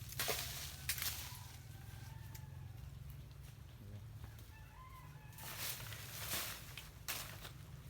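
A chicken calls with short wavering cries in the background. Several short, broad scraping or swishing noises come near the start and again in the last few seconds, over a steady low hum.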